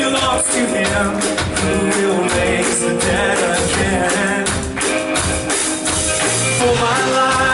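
Worship band playing a song, with singing, a steady percussive beat and guitar.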